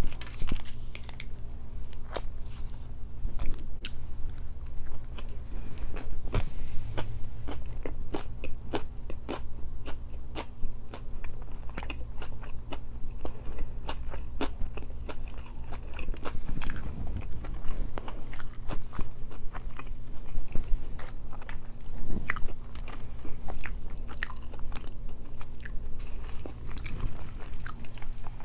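Close-miked chewing and biting of a grilled chicken wrap, with wet mouth sounds and many short sharp clicks and crunches.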